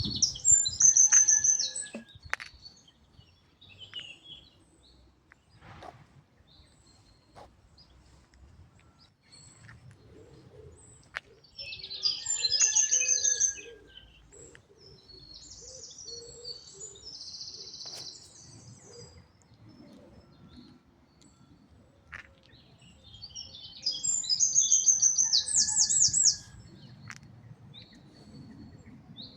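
A songbird singing three short, high-pitched bursts of song about twelve seconds apart, each a quick run of repeated notes, over a faint low rumble.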